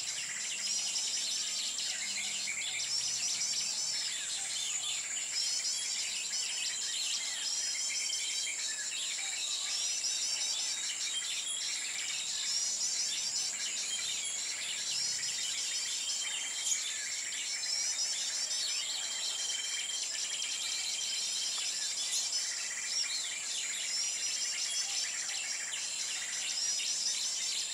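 Small songbirds chirping in repeated quick twittering series, with a few held whistled notes, over a steady high-pitched insect drone.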